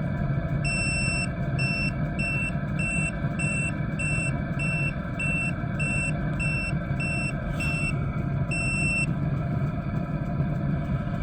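Chinese diesel heater running steadily with a low hum. Over it, a high electronic beep sounds once long, then about a dozen short beeps roughly every half second, then one more long beep near the end of the run.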